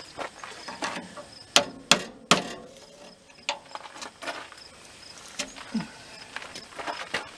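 An old glued-on door gasket being pulled and scraped off an outdoor furnace door: irregular sharp scrapes and knocks, the loudest three coming close together about a second and a half to two and a half seconds in. A cricket chirps faintly and steadily behind it.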